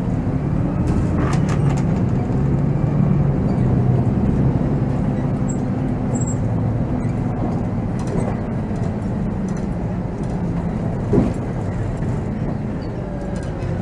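Volvo B7R coach's six-cylinder diesel engine running steadily as the bus drives, heard inside the cab, with light rattles and a single thump late on.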